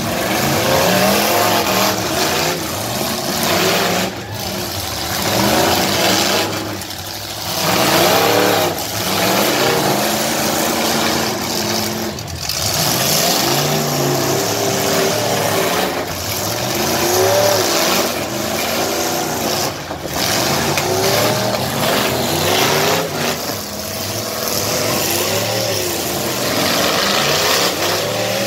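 Several car and truck engines revving, their pitch rising and falling over and over and overlapping one another.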